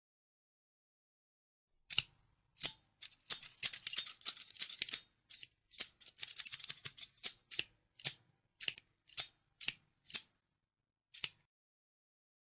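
Scissors snipping, a crisp run of blade closures starting about two seconds in. It comes in rapid bunches in the middle, then single snips spaced apart, the last one near the end.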